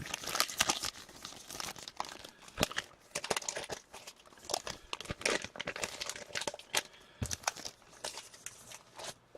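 Hockey trading cards and their pack wrappers being handled and sorted by hand: an irregular run of small clicks, slides and crinkles.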